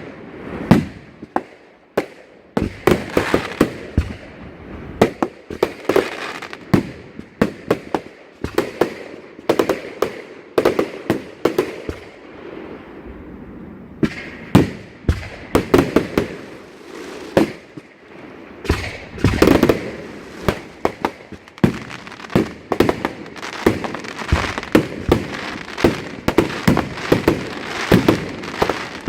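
Fireworks display: a near-continuous run of bangs and crackles, many a second, easing off briefly about halfway through before picking up again.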